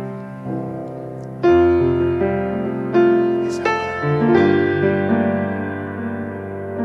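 Slow instrumental piano music, sustained chords struck one after another and left to ring and fade, with a deep bass note entering about one and a half seconds in.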